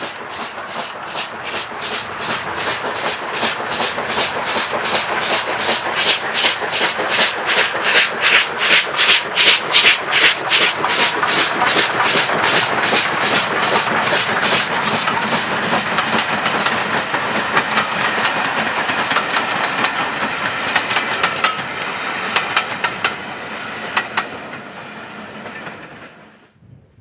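Steam locomotive hauling a train past, its exhaust beating quickly and evenly, building to the loudest point about ten seconds in and then fading into the rumble and clatter of the carriages over the rail joints. The sound cuts off abruptly near the end.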